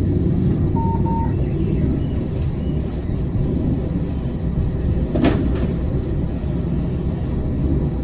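Tram running, heard from inside the car: a steady low rumble, a short double beep about a second in, and one sharp clunk about five seconds in.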